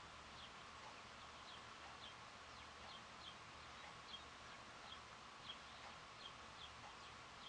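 Small songbirds chirping: a faint run of short, high chirps, about two a second, over a steady hiss.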